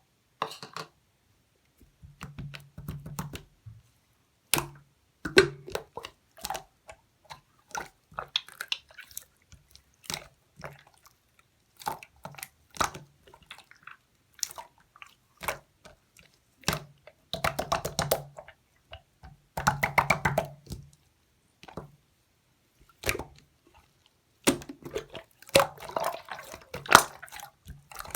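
Slime being squished and pressed by hand: clusters of wet, sticky clicks and pops, coming in bursts every second or two with short pauses between.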